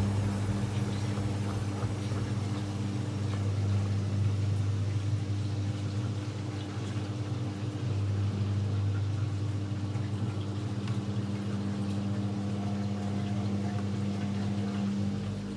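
AEG Electrolux Lavamat L74810 washing machine running mid-cycle: a steady low hum with water moving through the machine.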